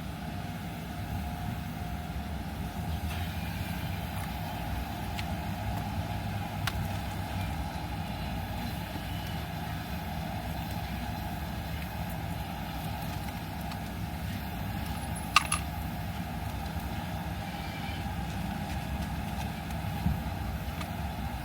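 Steady low rumble heard inside a car's cabin, with the engine idling, and a single sharp click about fifteen seconds in.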